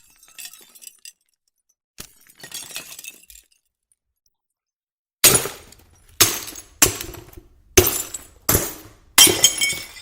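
Glass breaking, as a string of separate shatters each followed by falling shards tinkling. Two fainter breaks come first, then from about halfway a rapid run of six or seven louder smashes, less than a second apart.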